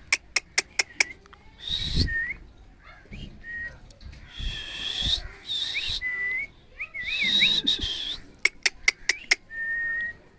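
A pet parrot whistling short, steady notes and giving several harsh, scratchy squawks, with sharp clicks in between.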